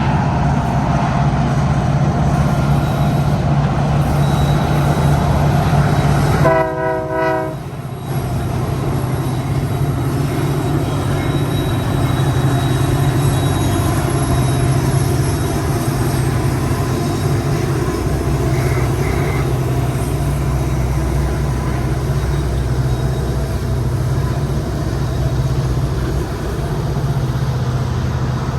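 Diesel-powered freight train rolling past with a steady low engine hum. A short train horn blast sounds about six and a half seconds in.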